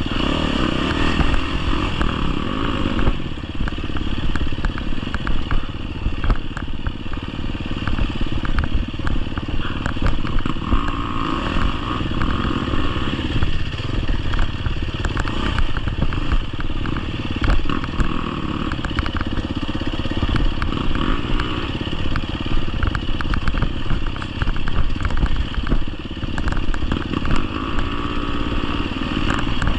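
GasGas EX250F's 250cc four-stroke single-cylinder engine running as the bike is ridden off-road, the revs rising and falling. Frequent clattering and knocks are heard alongside it.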